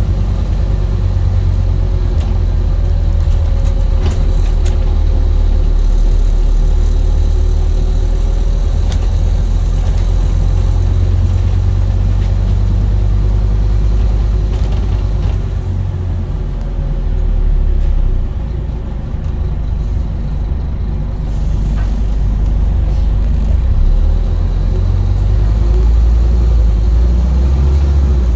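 Scania N230UD double-decker bus's five-cylinder diesel engine running as the bus drives, a steady low drone with road noise. The engine note eases off briefly about two-thirds of the way through, then builds again.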